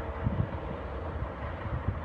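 Low, uneven rumble of an approaching train locomotive, with no horn sounding.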